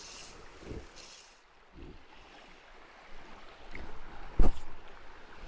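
Flowing river water with wind on the microphone, a few soft knocks, and one sharp thump about four seconds in.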